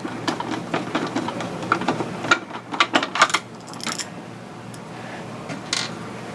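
Screwdriver and hands working on the plastic shell of a 1995 Kenner electronic X-Wing toy while backing out a screw. Many small clicks and plastic rattles come in the first four seconds, then quieter handling with a short scratchy sound near the end.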